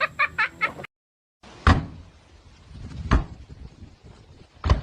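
Three loud, sharp knocks or thumps, about a second and a half apart, each with a short ring after it.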